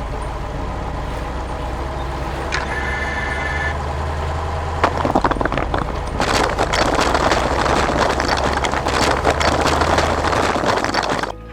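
Heavy construction vehicle engine running steadily with a low hum, with a short beep-like tone a few seconds in. From about halfway a loud crackling, rumbling noise builds over the engine and stops suddenly near the end.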